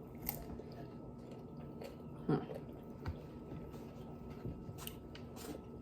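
Faint eating sounds: chewing with scattered light clicks and taps. A brief voice sound a little over two seconds in.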